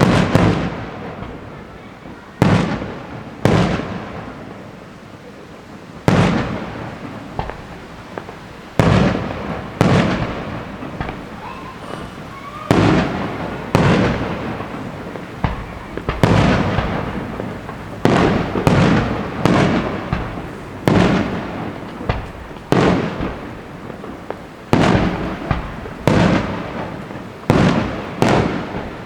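Fireworks exploding in a steady string of sharp bangs, one every one to two seconds and sometimes two close together, each dying away in a rolling echo.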